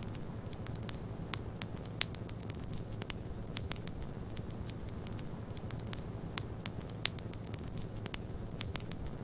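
Wood fire crackling, with frequent irregular sharp pops and snaps, a louder pop about 2 seconds in and another about 7 seconds in, over a steady low rushing noise.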